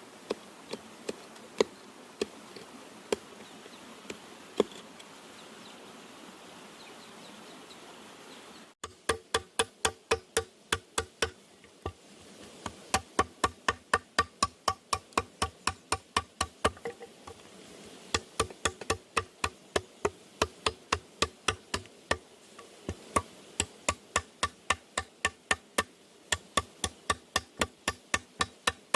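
Rapid, evenly spaced knocks on bamboo, about five a second in runs of several seconds with short breaks, each with a hollow wooden ring: a hand tool striking bamboo. The first third holds only a faint background hiss with a few scattered clicks.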